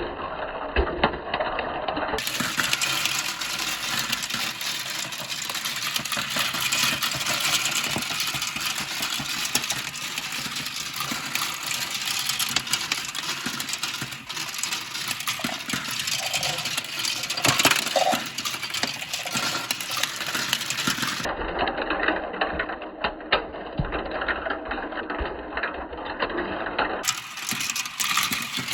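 Many glass marbles rolling and clacking down a plastic marble-run slope: a dense, continuous rattle of small clicks, cut between clips a few times.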